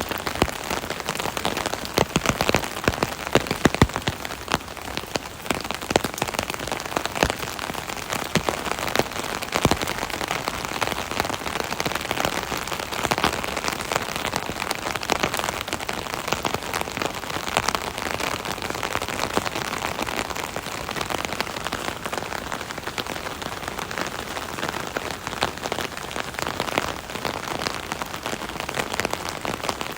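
Rain drumming on an umbrella canopy overhead: a dense, steady patter of many small drop impacts.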